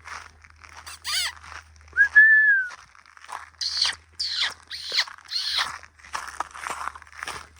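Footsteps crunching on dry ground at a steady walking pace, about two steps a second, louder in the second half. About two seconds in comes one short, clear whistled note, the loudest sound here.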